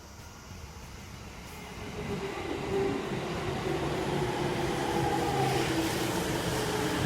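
Musashino Line electric train approaching and growing louder from about two seconds in, its running noise carrying several steady whining tones.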